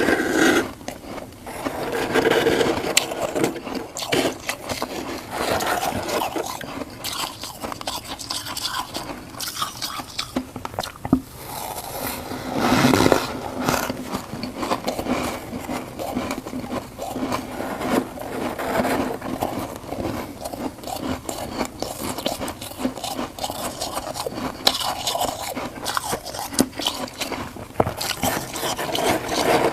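Crunchy humidifier frost being scraped and crunched, a dense irregular crackling.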